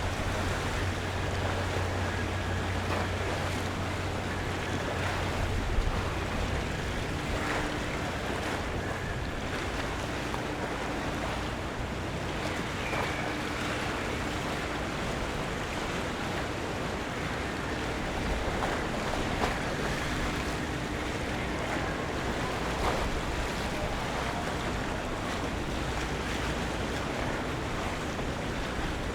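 Harbour waterfront ambience: harbour water lapping, with wind. A low steady hum lasts for about the first six seconds and then fades, and faint brief tones and a few light knocks come and go over it.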